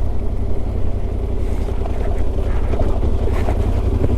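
Yamaha Ténéré 700's 689 cc parallel-twin engine running at a steady pace under way, a constant low rumble with wind noise over the microphone.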